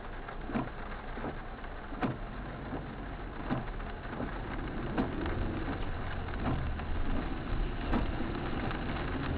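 Noise inside a moving car recorded by a dash cam: steady tyre and road noise with faint knocks about once a second, and a low rumble that grows louder about halfway through.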